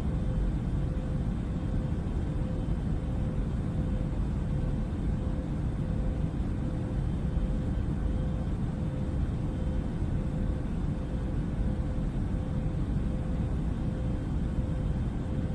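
Jet airliner heard from inside in flight: a steady low rumble of engine and air noise with a faint steady hum over it.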